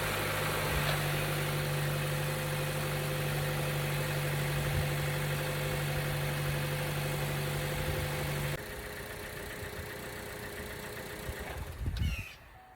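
Four-cylinder engine of a 2013 Chevy Cruze idling steadily, just started after a fresh oil change to check for leaks. It turns quieter about eight seconds in and stops near the end.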